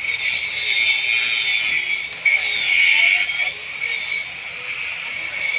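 Electric tile-cutting saw running with a steady high whine, its pitch sagging slightly about halfway through, then recovering.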